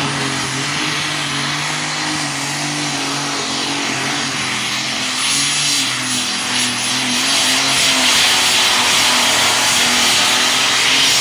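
Light modified pulling tractor running at full power during a pull: a loud, steady engine drone with a thin high whine joining about halfway, getting louder towards the end.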